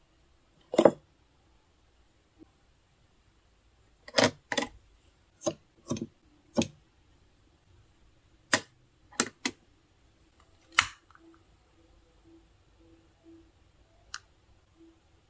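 Added fire-crackle sound: about a dozen sharp, irregular pops and snaps over a quiet background, clustered a few seconds in and spaced unevenly.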